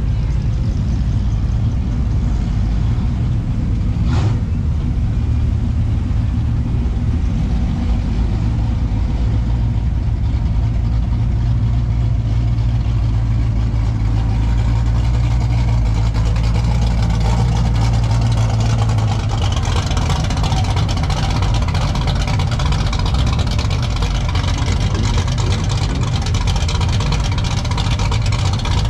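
Car engine running at idle, a steady low note with a sharp click about four seconds in; the low engine note drops away about nineteen seconds in, leaving a broader hiss.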